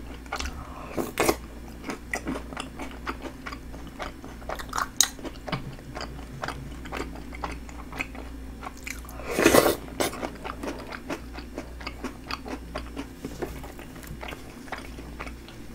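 Close-miked chewing and crunching of spoonfuls of snack bingsu: soft Homerun Ball puffs, chocolate chips and cookie crumbs in milk and red-bean ice. Small crackles and smacks come steadily, with one louder, longer burst about nine seconds in.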